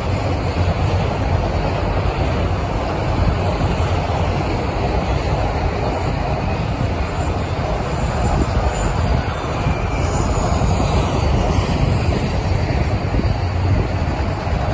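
Empty autorack railcars of a freight train rolling past: a steady, loud rumble of steel wheels on rail.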